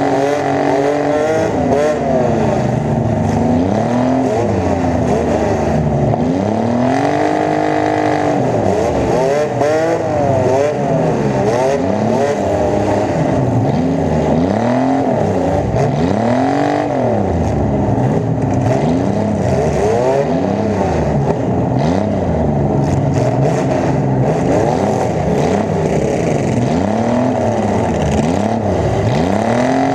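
Demolition derby car's V8 engine heard close up through its open straight exhaust stack, revved again and again: the pitch climbs and falls back about every one to two seconds throughout.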